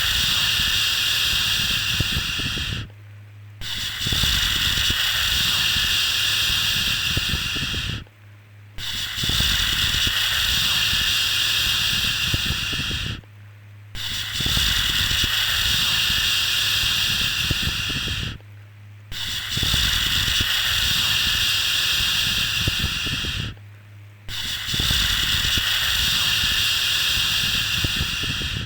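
Repeated long 'shhh' shushing sounds for lulling a baby, each held about four and a half seconds with a short pause of under a second between them, six in all. A steady low hum runs underneath.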